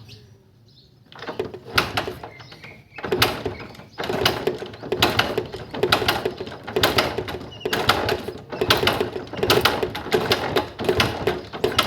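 Honda CD 70 engine being kicked over repeatedly without starting, making a loud rapid clattering rattle from about a second in. The clatter comes from a slack timing chain whose roller rubbers have broken out; the mechanic says it sounds like a broken timing chain or bent valves.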